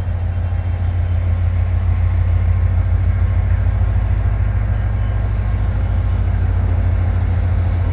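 Diesel-electric locomotive hauling a departing passenger train, its engine giving a deep, steady rumble that grows a little louder about two seconds in.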